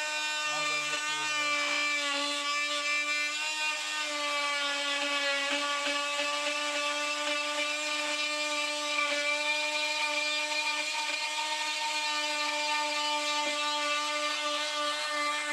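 Power tool motor running steadily under load, a constant high-pitched whine that holds one pitch throughout.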